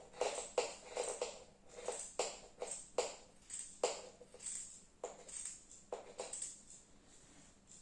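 Scissors cutting through fabric: a run of quick snips, about two to three a second, that stops about six and a half seconds in.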